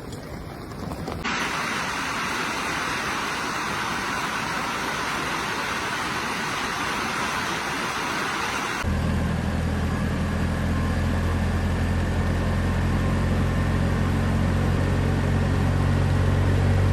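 A steady rushing noise, then, from about nine seconds in, an engine running steadily at an even pitch under the noise.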